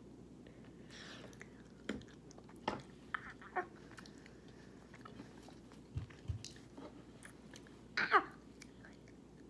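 Close-up mouth sounds of someone chewing sour gummy candy: scattered wet smacks and clicks. About eight seconds in comes a short vocal sound, the loudest moment.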